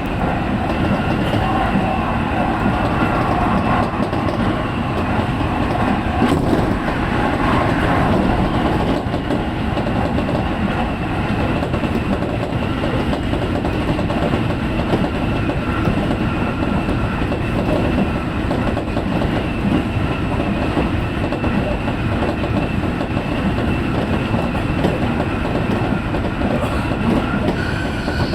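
Tsukuba Express electric commuter train running at speed, heard from inside the front car: a steady rumble of wheels on rails with the clickety-clack of the track and a faint steady tone over it.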